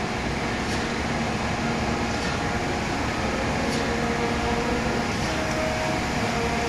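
ACER Supra-1640AHD surface grinder running with a steady mechanical hum, and a faint hiss that comes back about every second and a half.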